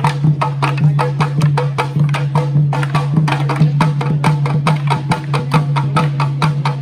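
Tharu stick dance music: wooden sticks clacking and drums beating a fast, even rhythm, about five to six strikes a second, over a steady low drone.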